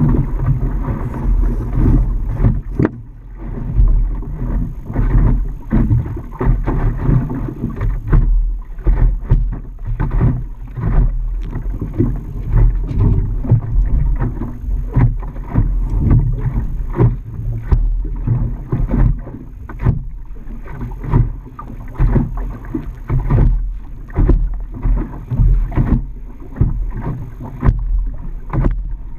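Water splashing and slapping against the hull of a small Optimist sailing dinghy under way, in irregular surges, with wind buffeting the microphone.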